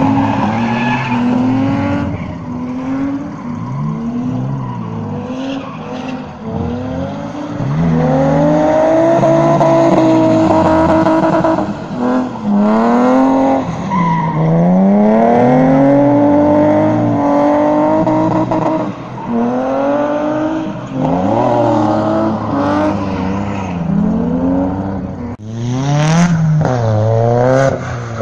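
A drifting car's engine revving hard in repeated rising and falling sweeps, held at high revs for a second or two at a time, as the car slides round a skidpad circle on smoking tyres. About 25 seconds in the sound cuts abruptly and another car's engine takes over, revving the same way.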